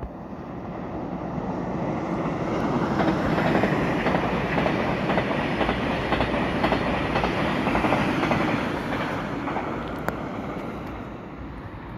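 Red Thalys high-speed train passing through at speed. A rush of wheel and air noise builds over the first few seconds and holds loud with a rapid clatter of wheels over rail joints, then fades as the train draws away.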